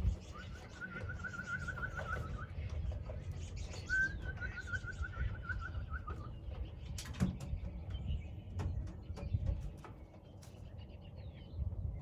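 A bird calling with a rapid trill of repeated high notes, twice, each about two seconds long, over a steady low rumble, with a couple of sharp clicks about seven seconds in.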